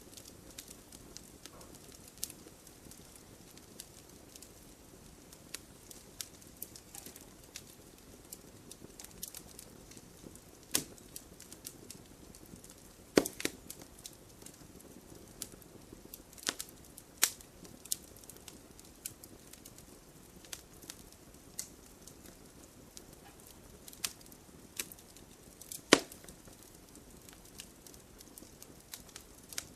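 Campfire burning: a low, steady hiss under irregular sharp crackles and pops of burning wood, a few of them loud.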